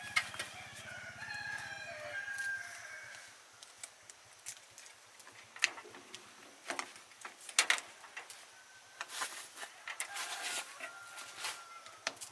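A rooster crows once near the start, one drawn-out call over a low hum that stops about two seconds in. Scattered sharp clicks and knocks follow, with a fainter crow-like call near the end.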